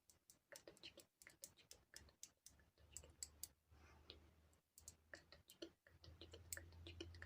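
Faint, irregular clicking and tapping close to the microphone, several clicks a second, with a low hum coming in partway through.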